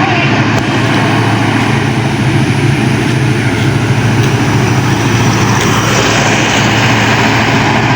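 Heavy truck engine running steadily, loud and close, with a constant low hum.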